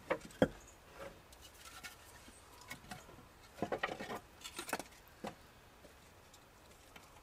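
Split firewood being handled and set down, the pieces knocking and clattering against each other: one sharp knock about half a second in, then a run of clattering knocks around the middle.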